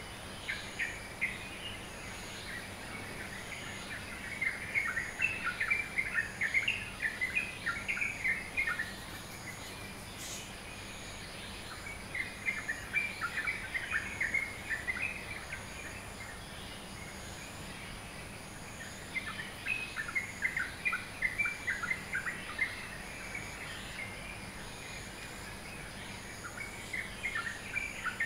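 Dawn chorus of birds: rapid high chirps coming in bouts of a few seconds with short lulls between, over a steady high hiss with faint regular pulses.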